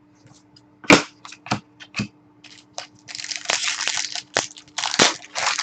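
Trading-card packs and cards being handled: a few sharp snaps, then a stretch of dense crinkling like a foil pack wrapper being torn and crumpled.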